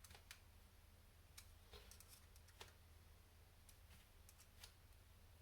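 Near silence with a dozen or so faint, scattered light clicks of small tools and metal screws being handled while parts of an RC excavator kit are screwed together, over a low steady hum.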